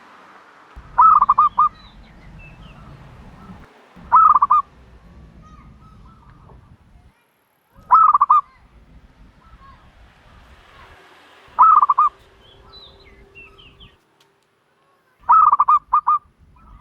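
A dove calling loudly, five times: each call a quick burst of three or four short notes, coming about every three to four seconds. Faint chirps of other birds sound in between.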